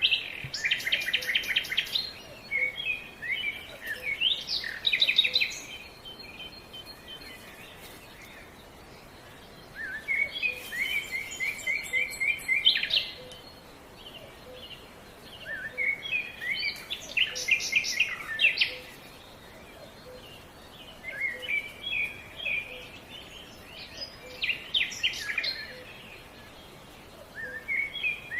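A songbird singing, repeating a phrase of rapid trilled notes two to five seconds long about every six seconds, with short pauses between.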